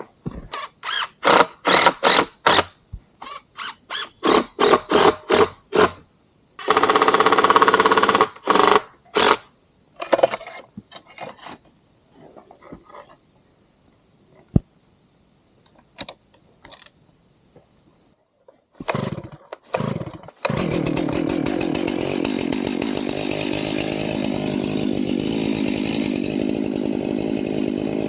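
A run of short crunching knocks for the first several seconds, then a chainsaw is pull-started: it catches briefly and dies, and after a few more pulls it starts about two-thirds of the way in and runs steadily. The saw is set to drive a beam mill.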